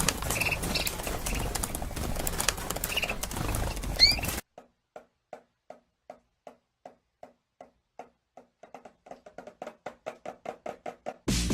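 A bird calling: a few short chirps over background noise, then a long series of short repeated notes that come faster and grow louder.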